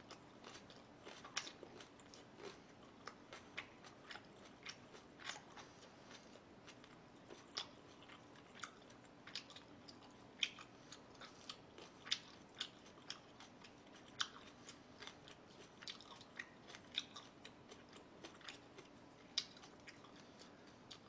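Close-miked chewing and biting: a person eating, with irregular sharp wet clicks and small crunches, one to three a second.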